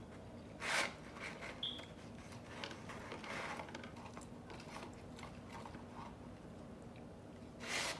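Close-miked eating: two sharper crunchy bites, one just under a second in and one near the end, with softer chewing noises between. A short high beep sounds about a second and a half in.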